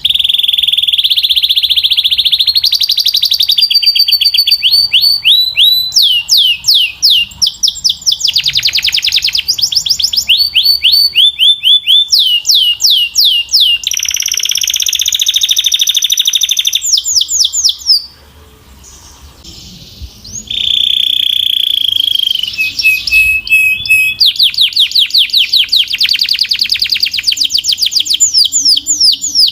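Canary singing: fast trills of repeated falling notes and rapid rolling tours, loud and shrill, with a break of about two seconds a little past the middle before the song resumes.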